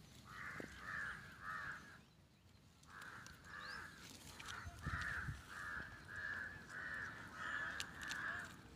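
A bird giving a series of harsh cawing calls, about a third of a second each: three, a pause of about a second, then about ten more at an even pace.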